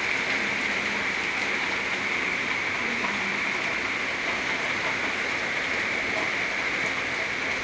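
Heavy monsoon rain falling steadily, a continuous even hiss of rain on the ground and puddles.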